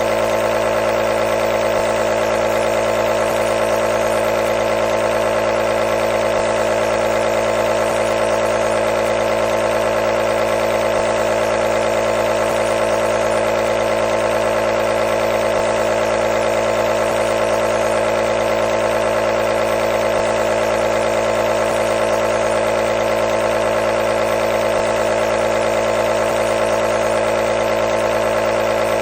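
Compressor nebulizer running, a steady, unchanging mechanical hum with a strong midrange drone.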